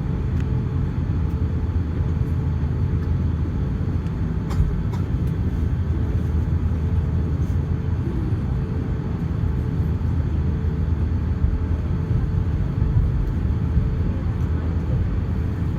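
Steady low rumble inside the cabin of an Airbus A350-900 on the ground after landing: its Rolls-Royce Trent XWB engines and the wheels rolling on the runway or taxiway, with a faint steady hum and a couple of light clicks.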